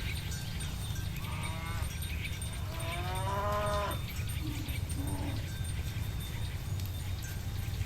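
Cattle mooing: a short call near the start, a longer call lasting about a second around three seconds in, then two short, lower calls. A steady low rumble runs underneath.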